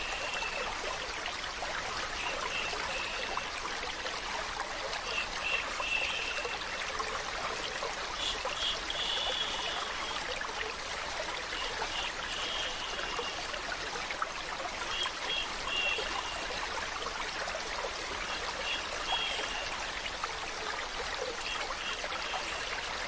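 Running water trickling and flowing steadily as a continuous hiss, with short high tones recurring about every three seconds.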